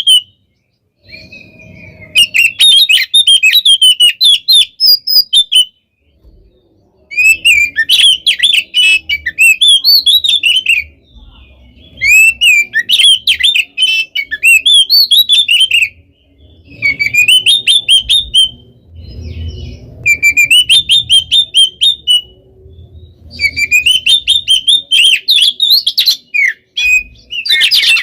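Oriental magpie-robin (kacer) singing loudly in rapid, dense phrases of fast chattering and twisting whistled notes. Each burst lasts a few seconds, with short pauses between them, about six phrases in all.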